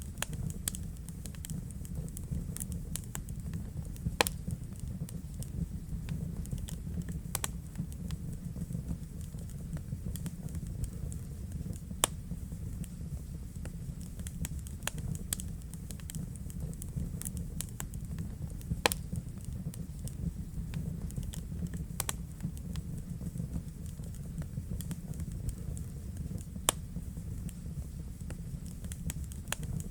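Wood fire burning in a fireplace: a steady low rumble of flames under constant crackling, with a handful of louder sharp pops scattered through.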